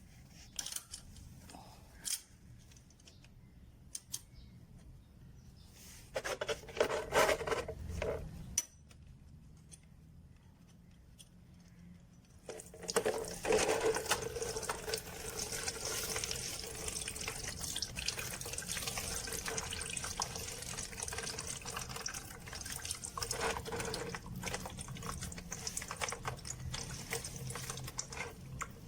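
Motorcycle coolant running in a stream and splashing into a container. It runs steadily through the second half, after a shorter gush a few seconds earlier and a few light clicks at the start.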